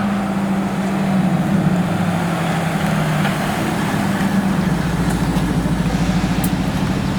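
Car engine running steadily at low revs with an even drone; its pitch steps down slightly about three seconds in, and a deeper rumble comes in about four and a half seconds in.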